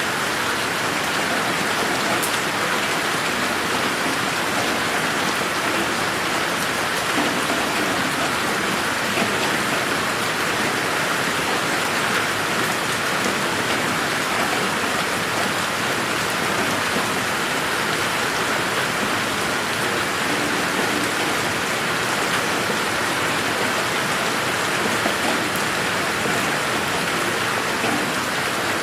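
Steady rain falling in a garden, a constant hiss with scattered drops pattering on surfaces.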